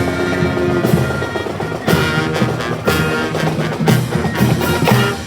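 High school marching band playing: held brass chords over drum hits about once a second.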